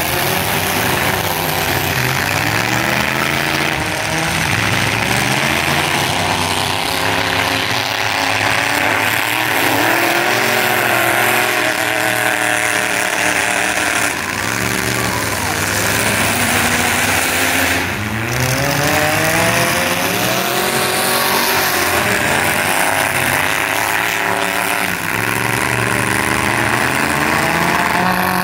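Several demolition derby cars' engines revving hard, their pitch rising and falling over and over as they drive and ram in the arena, with one sharp bang about eighteen seconds in.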